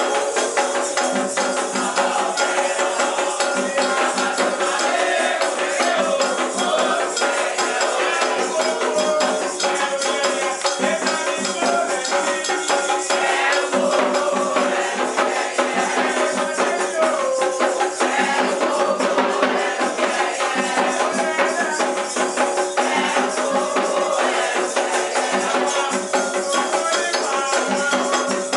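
Candomblé ceremonial music: voices singing Yoruba chants over steady, dense percussion with shaken rattles.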